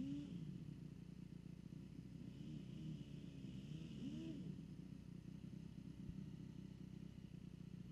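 Faint motocross dirt bike engines running, steady, with pitch rising and falling a few times around the middle as throttle is worked.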